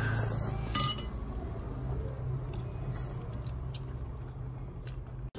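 Faint eating sounds: a few short clicks and mouth noises over a steady low hum.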